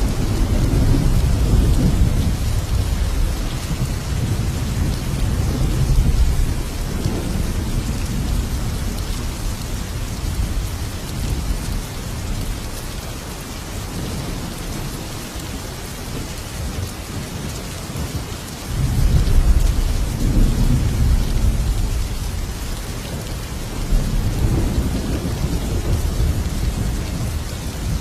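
Thunderstorm: steady rain hiss with rolling thunder, a long rumble over the first several seconds, a sudden loud peal about two-thirds in that slowly dies away, and another rumble near the end.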